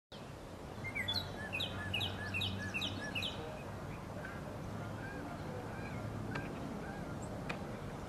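Songbirds chirping: a quick run of repeated short, high chirps, about two or three a second, for the first few seconds, then scattered softer chirps. A steady low hum runs underneath.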